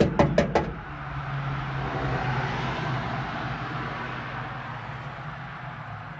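A vehicle passing by, its noise building over about two seconds and then slowly fading away. Four quick sharp knocks come right at the start.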